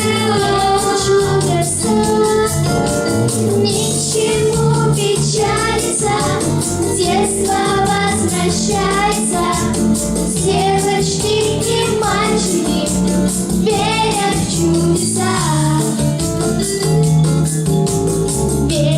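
Pop song performed live: voices singing a melody over a backing track with a steady bass beat.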